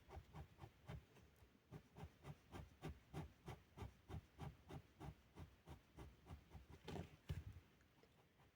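Fine liner pen drawn across paper in quick, short, even strokes, about three a second, hatching shadows; a louder scrape and knock come near the end, and the strokes then stop.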